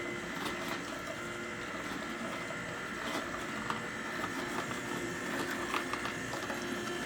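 Nama J2 slow masticating juicer running, a steady motor whine with irregular light clicks as it presses produce.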